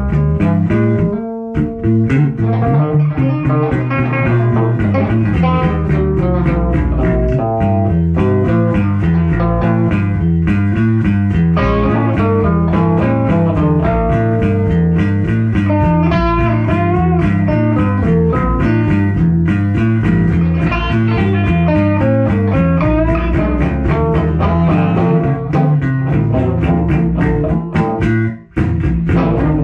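Blues-style instrumental music on guitar and bass guitar, with a brief break about a second and a half in and another near the end.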